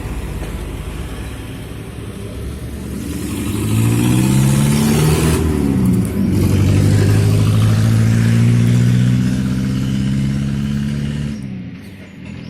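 Truck engine revving: its pitch climbs from about three seconds in, dips briefly, then holds steady at higher speed for about five seconds before falling away near the end.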